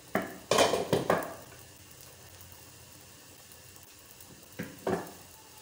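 Stuffed paratha cooking dry on a hot tawa: a faint steady sizzle, with short louder bursts of hissing noise about half a second to a second in and twice more near the end.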